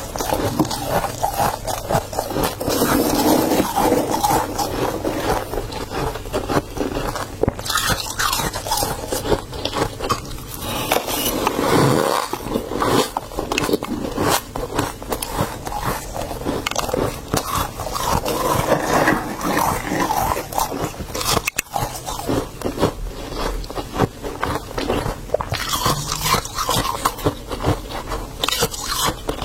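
Freezer frost being scraped off a mini fridge's freezer compartment, then bitten and chewed close to the microphone: a dense, continuous run of crisp crunches and scrapes.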